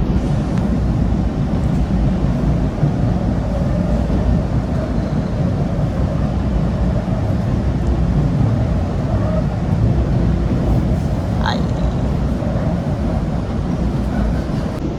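MBTA Red Line subway train running between stations, heard from inside the car: a steady, loud low rumble of wheels and running gear on the track.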